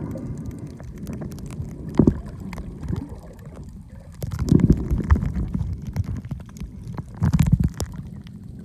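Muffled water sloshing and gurgling around a submerged camera, in low rumbling swells with scattered small clicks, about a second and a half, two and a half, and a few seconds apart.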